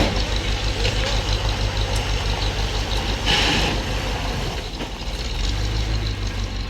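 A work engine runs steadily with an even low beat. It dips briefly about four and a half seconds in, then picks up again. A short hissing noise comes about three seconds in.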